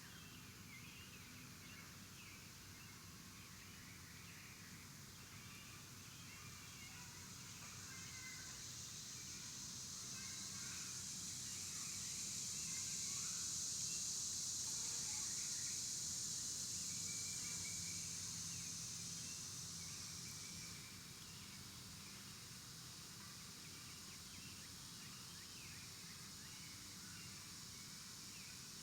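Outdoor ambience of small birds chirping and calling, with a high, steady insect buzz that swells from about eight seconds in and cuts off suddenly around twenty seconds in.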